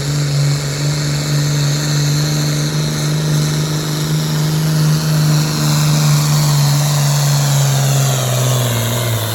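Modified farm pulling tractor's engine running flat out under load as it pulls the weight sled, a steady loud drone with a hiss above it. Near the end the pitch sags a little as the engine is dragged down.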